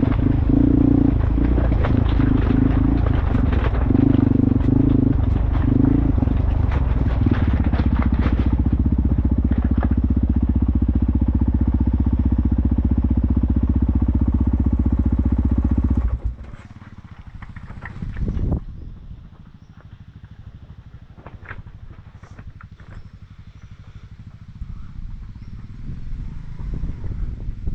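Dual-sport motorcycle engine running under way, pulsing at first and then steady, cutting off abruptly about sixteen seconds in. A much quieter stretch follows with scattered knocks and clatter.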